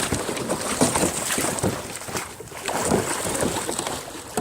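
A large white sturgeon thrashing beside a kayak, churning and slapping the water in a loud, rough stretch of splashing that eases off near the end.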